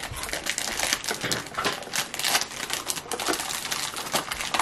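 Crunchy chocolate biscuit being chewed: a dense, irregular run of crisp crunches.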